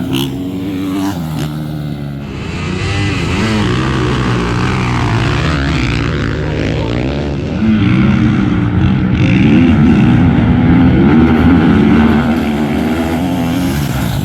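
Dirt bike engines running hard in a drag race, their pitch rising and falling as they rev, growing louder about eight seconds in.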